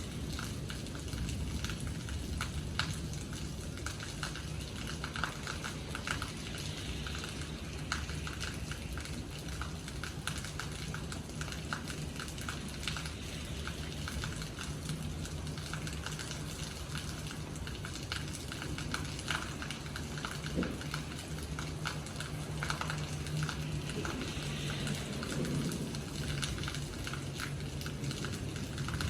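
Rain falling, with many separate drops striking a hard surface as sharp ticks, over a steady low hum.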